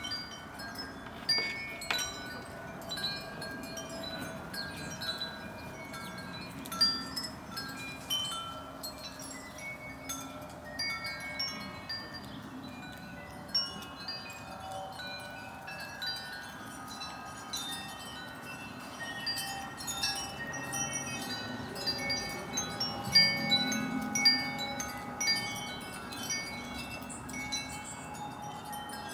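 Chimes ringing irregularly: many short, ringing tones at scattered pitches overlapping one another, a little louder near the end.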